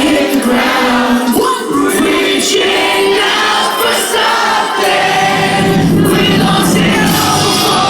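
Post-hardcore band playing live and loud, with sung vocals over distorted guitars, drums and crashing cymbals.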